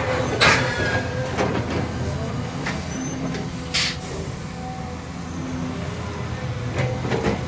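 Heavy diesel truck engine running steadily, with a couple of short hissing bursts.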